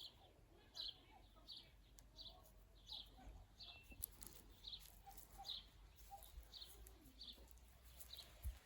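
A small bird calling faintly and over and over, one short high chirp about every three-quarters of a second.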